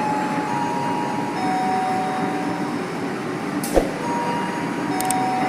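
Train moving through a railway station: a steady rumble with a few faint thin tones over it, and one sharp knock a little under four seconds in.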